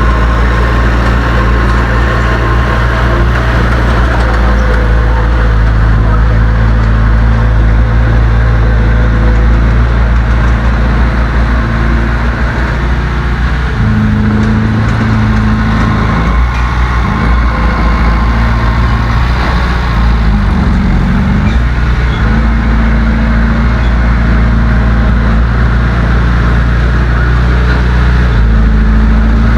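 Heavy diesel engine of earthmoving machinery running loud and steady under load. Its pitch shifts about halfway through and briefly sags and recovers a little later.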